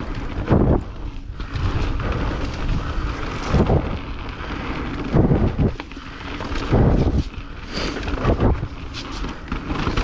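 Wind rushing over the microphone and tyre noise from a mountain bike riding a wet, slick trail, with about five heavy low thumps and surges as the bike goes over bumps.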